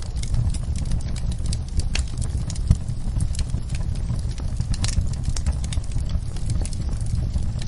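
Wood fire in a fireplace crackling: irregular sharp pops and snaps over a steady low rumble of burning. One pop a little under three seconds in is louder than the rest.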